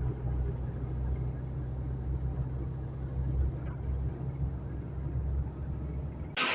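Heavy truck engine running steadily under way, a low even drone. Near the end it cuts off abruptly to a different, hissier sound.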